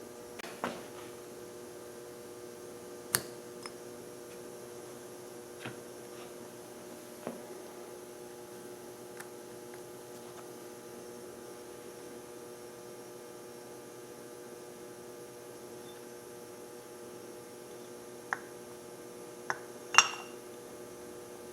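Scattered small clicks and clinks of carburetor parts and tools being handled during reassembly of a WME outboard carburetor, about eight in all, the sharpest about three seconds in and a close pair near the end, over a steady electrical hum.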